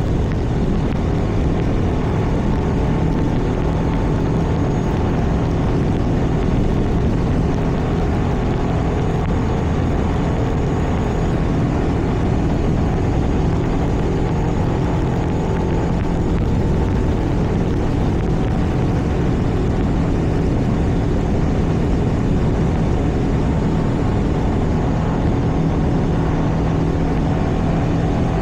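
Steady driving noise from a road vehicle at cruising speed: a constant engine drone under road and wind noise.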